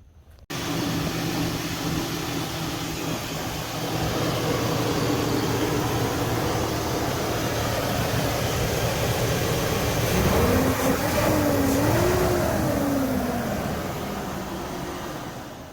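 Pickup truck's V8 engine running steadily, its pitch rising and falling once about ten seconds in.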